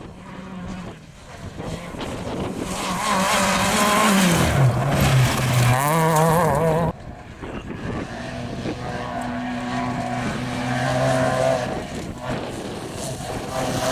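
Rally competition engines at full throttle on a gravel stage. The pitch rises, dips and wavers with gear changes about four to six seconds in, then cuts off abruptly about seven seconds in to another vehicle's engine running steadily.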